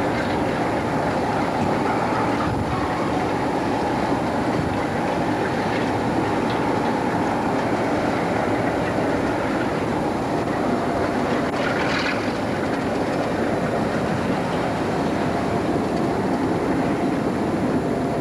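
Railtour train hauled by a Class 47 diesel running slowly along dockside track, heard from one of its coaches: a steady rumble of wheels on rail with some clicking, and a brief high-pitched squeal about twelve seconds in.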